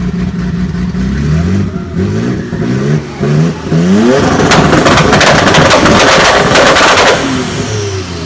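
Car engine revved in several quick rising blips, then held against a 2-step launch limiter for about two and a half seconds, firing a loud, rapid string of exhaust pops and bangs.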